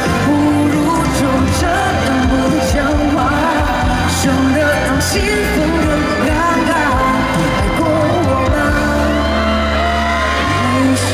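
Live pop music from a concert: a band playing with sung vocals over steady bass, and a few drum or cymbal hits.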